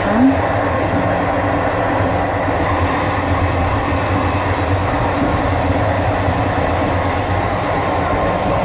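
Steady low rumble and running noise of a moving ONCF passenger train, heard from inside a carriage's toilet cubicle.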